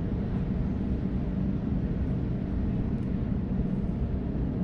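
Steady low rumble of a Waratah A-set electric train in motion, heard from inside the carriage.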